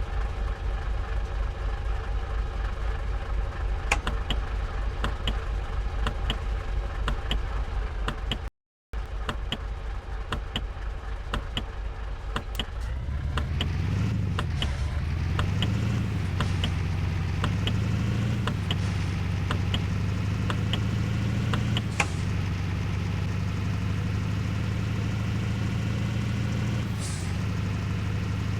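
A vehicle engine running, at first with a steady low beat. About 13 s in it picks up and its pitch rises and falls a few times, then settles into a steady hum.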